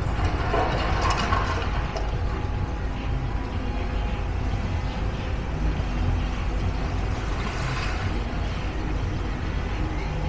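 Steady low-pitched outdoor background rumble, with faint higher clattering about a second in and again near eight seconds.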